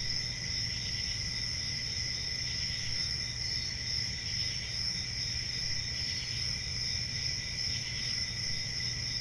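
Crickets chirping in a steady, continuous chorus of high, rapidly pulsing trills, with a low steady hum underneath.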